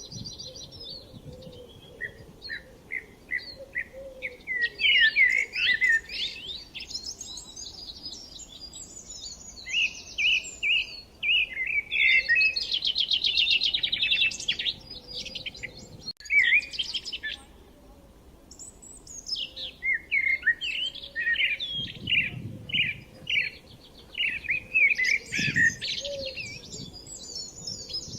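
Birds chirping and singing in quick runs of high notes and trills, with a brief break about halfway through.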